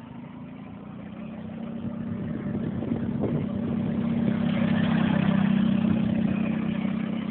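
A modified Sears garden tractor's 6.5 hp engine running steadily at speed, growing louder over about the first five seconds, then easing off slightly.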